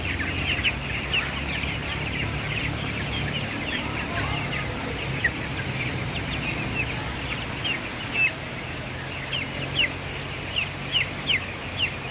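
Young chickens peeping: many short, high, downward-sliding chirps, irregular and overlapping, with a few louder peeps near the end, over a low steady hum.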